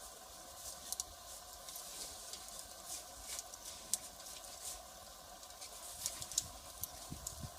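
Firewood fire crackling: irregular sharp pops and snaps over a steady hiss of the flames, with a few soft low thuds near the end.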